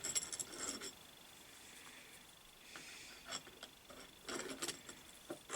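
Faint, scattered clicks and light metal clinks, with a short cluster of knocks a little over four seconds in, as the locking bolt on a lathe fixed steady (steady rest) is done up to lock a finger.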